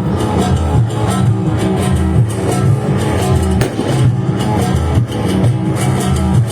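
Band music at a party: plucked guitar lines over a heavy, repeating bass line and a steady beat.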